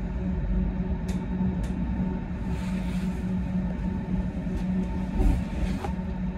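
Berlin S-Bahn train running, heard from inside the carriage: a steady low rumble with a steady motor hum, and a few short clicks about a second in and again near the end.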